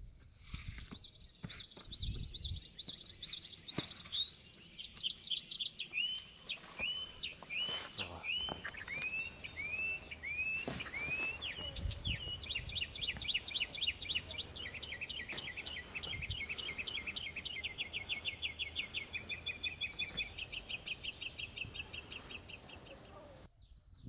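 A songbird singing: first a run of quick repeated chirps, then slower down-slurred whistled notes, then a long fast trill that stops abruptly near the end. A few soft low thumps sound underneath.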